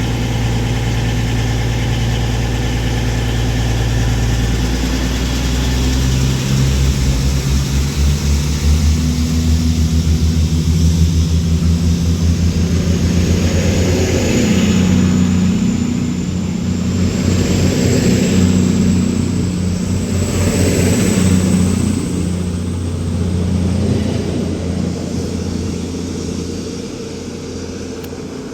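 Two coupled Class 220 Voyager diesel-electric units pulling away, their underfloor diesel engines opening up with a deep rumble. The cars then pass one after another, the sound swelling several times, with a thin whine slowly rising in pitch.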